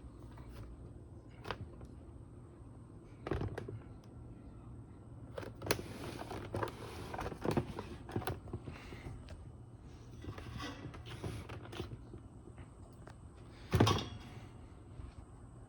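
Scattered knocks, clicks and rustling of objects being handled, with one louder thump near the end, over a faint steady low hum.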